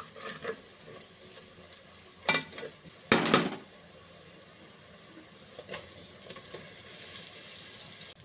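Spatula stirring a sizzling onion-and-spice masala in an aluminium pressure cooker. Two loud bursts of clatter and sizzle, about two and three seconds in, come as chopped tomatoes are dropped into the hot oil, followed by a steady sizzle.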